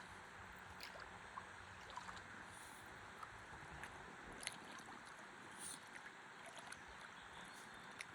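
Faint water lapping and trickling around a stand-up paddleboard drifting on a calm river, with a few light splashes.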